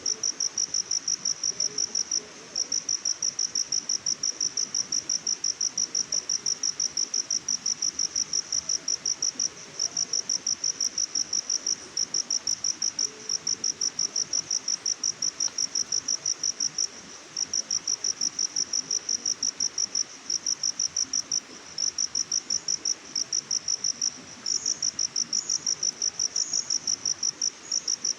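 An insect chirping in a fast, even pulse train of high-pitched notes, pausing briefly every few seconds.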